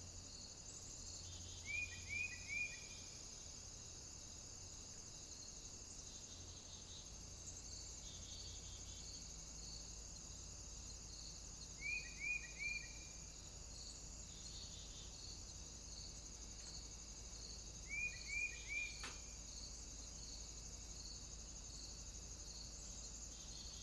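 Faint songbird calls: a quick run of three short, downward-curving notes, given four times at uneven intervals over a steady high-pitched hiss, with one faint click late on.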